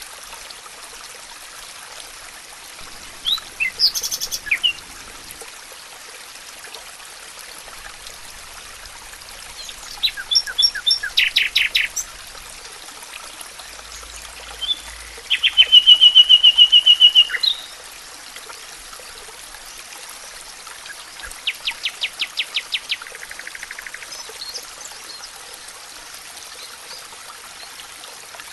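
Songbirds singing in separate short phrases: chirps about three seconds in, quick note series around ten seconds, a loud fast trill around sixteen seconds and another rapid series a little past twenty seconds. A steady hiss runs underneath.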